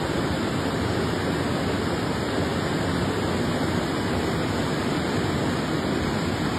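Floodwater rushing past, a steady, unbroken noise at an even level.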